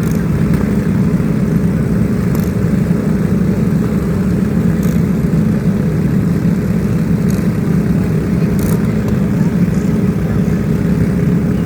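Steady low rumble of a motor vehicle running, even and unbroken, with a few faint ticks over it.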